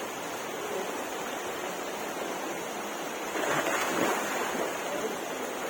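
Steady rush of flowing water, an even hiss that swells a little louder about three and a half seconds in.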